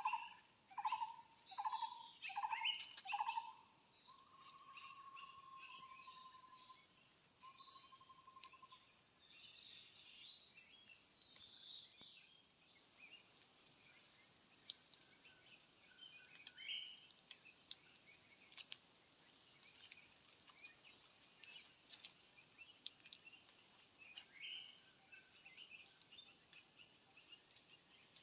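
A bird calling in a quick series of short notes, a little under two a second, for the first few seconds, then a few longer drawn notes. A steady high drone of forest insects runs underneath, with scattered faint chirps later on.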